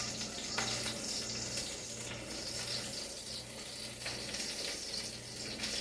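Chicken frying in a pan on the stove: a steady sizzle, with a low hum underneath that comes and goes.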